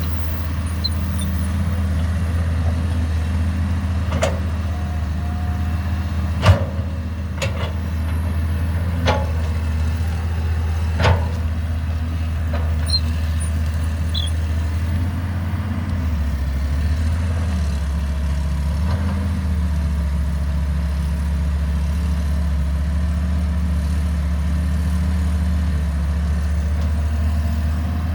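Caterpillar 312B excavator's diesel engine running steadily, with several sharp knocks about four to eleven seconds in. The engine note dips and shifts briefly about two-thirds of the way through.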